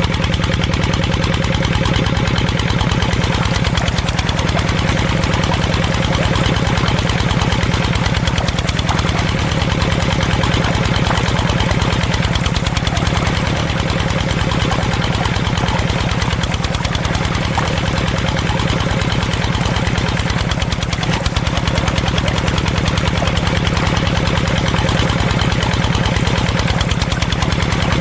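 A motor running steadily with a fast, even pulse and a strong low hum, like an engine at idle.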